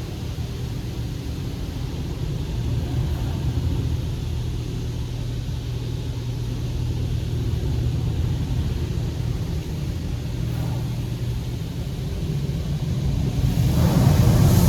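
PDQ LaserWash 360 Plus touchless car wash in its high-pressure wash cycle, heard from inside the car: a steady low rumble, and near the end the hiss of the water jets swells up loud as the spray reaches the car close by.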